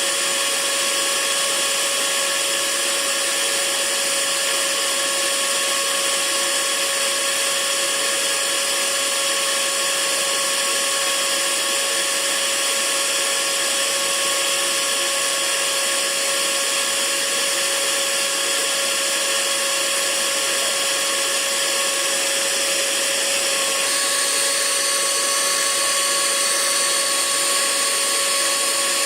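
Hair dryer running steadily: a constant rushing hiss of air over a steady motor whine, with a slight change in the whine about 24 seconds in.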